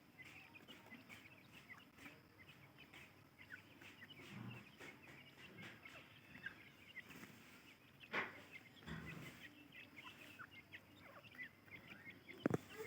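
Francolin (teetar) chicks peeping, with many faint, short, high chirps. A couple of knocks break in, about two-thirds of the way through and more sharply near the end.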